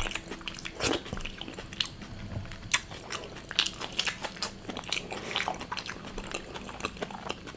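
A person biting and chewing crisp fried food close to the microphone, a run of short, sharp crunches.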